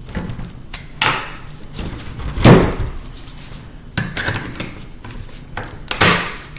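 Knocks and clatter of laptop parts and tools being handled on a hard surface during disassembly: about five separate impacts, the loudest about two and a half seconds in.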